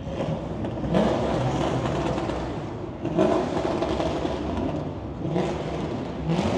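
Car engines revving and accelerating, with short rising runs in pitch about a second in, around three seconds and twice near the end, over a steady low engine rumble.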